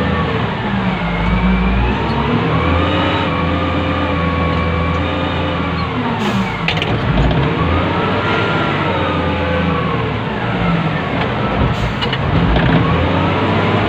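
Wheel loader's diesel engine heard from inside the operator's cab, revving up and dropping back several times in slow swells as the machine works. A couple of brief knocks come about halfway through and again near the end.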